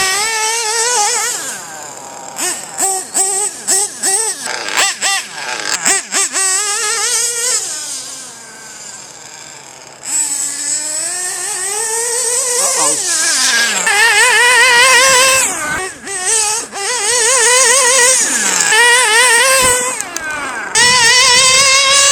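Nitro RC truggy's Mach-Star .28 engine running and revving as it is driven, its pitch wavering and rising and falling with the throttle; it fades about eight seconds in and comes back louder. The engine has no compression, yet it is tuned and pulls with some power.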